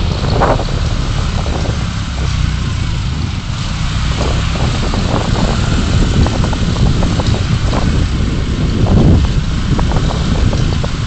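A car driving on city roads, heard through its dashcam microphone: a steady low rumble of road and engine noise, with scattered small knocks and rattles.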